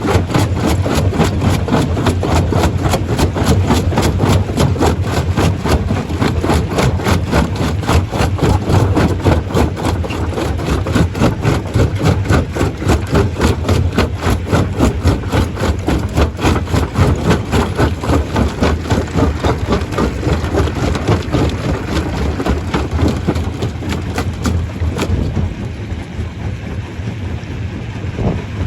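Stone crusher machinery running under power, a loud, steady mechanical noise with a rapid even pulse. About 25 seconds in, the higher part of the sound drops away and it turns duller.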